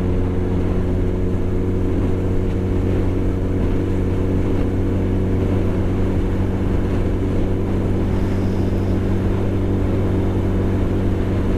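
Vehicle engine running at steady revs, a constant low drone that does not rise or fall.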